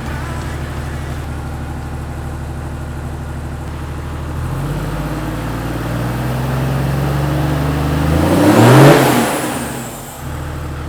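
Toyota Land Cruiser 80's 1HD-FT 4.2-litre straight-six turbo diesel running through a new 3-inch stainless side-exit exhaust. It idles steadily, steps up in speed about four and a half seconds in, and is then revved hard; the rev peaks near the end and falls quickly back toward idle. The owner finds the exhaust only slightly louder than before, with a better tone.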